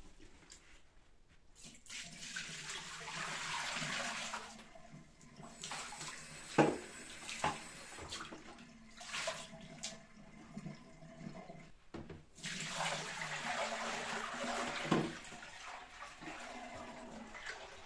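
Water running from a tap in two spells of a few seconds each, with a few sharp knocks between them.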